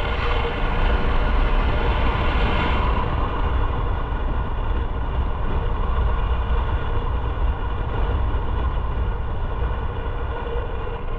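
Motorcycle riding at a steady speed: engine running under a heavy wind rumble on the microphone, the hiss easing a little about three seconds in.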